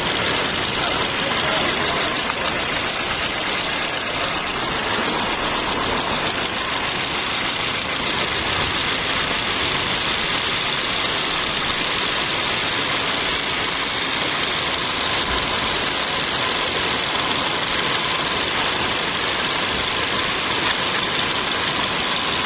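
2006 Toyota Corolla's four-cylinder engine idling steadily under a strong, even hiss, while it is checked for a misfire that the technician suspects comes from a small intake leak.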